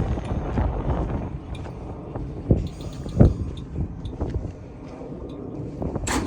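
Kawasaki R211A subway train running on the track: a steady low rumble with a few sharp wheel thumps, and a brief loud hiss near the end.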